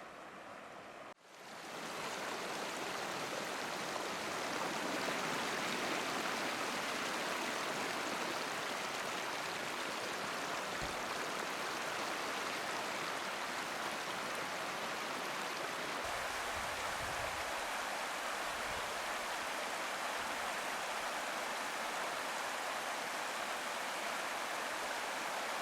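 Chehalis River floodwater rushing in a steady, continuous flow, starting after a short break about a second in. A few low rumbles come partway through.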